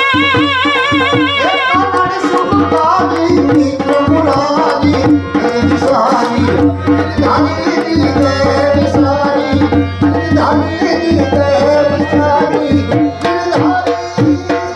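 Gujarati folk music on sarnai and dhol: the sarnai holds a wavering note for about the first two seconds, then the full ensemble plays on, with busy dhol drumming under the reed melody.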